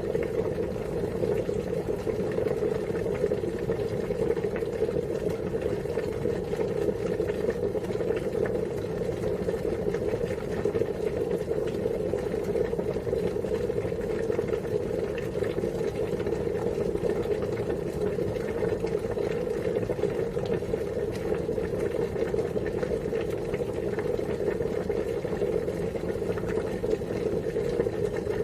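Water at a steady boil, a continuous even bubbling that does not change.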